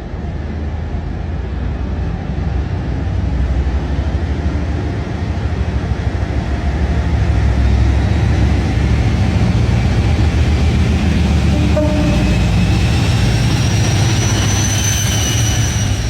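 Class 56 diesel locomotive's Ruston-Paxman V16 engine working under power, a deep heavy rumble that builds over the first several seconds and then holds. High ringing tones come in over the last few seconds.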